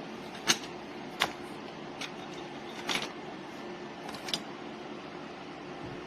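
Five short, sharp clicks and knocks, spread over the first four seconds, over a steady low hum.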